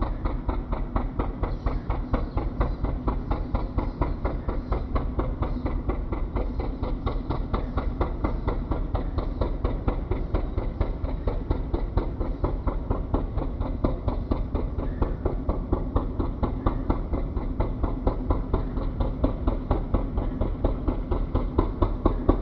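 Fishing boat's diesel engine running steadily with a fast, even knocking beat over a low rumble.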